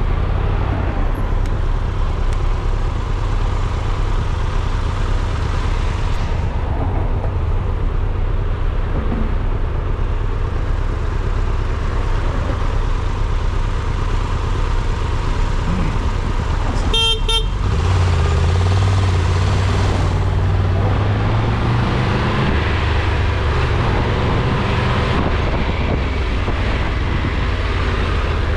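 Steady low rumble of a car on the move, with one short car horn honk a little past halfway.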